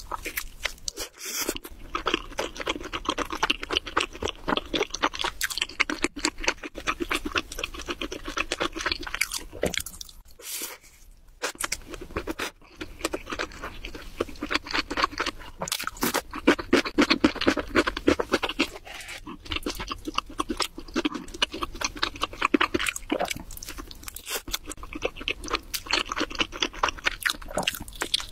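Close-miked biting and chewing of pizza: a steady run of rapid crunching and crackling, with a short lull about ten to eleven seconds in.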